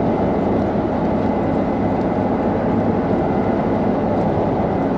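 Combine harvester running steadily, heard from inside the cab, its rotor and freshly engaged header turning: a constant dense machine drone with a low hum.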